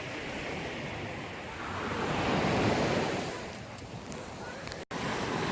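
Sea waves washing on a shore, one wave swelling louder about two seconds in and then fading, with wind buffeting the microphone. The sound cuts out for an instant near the end.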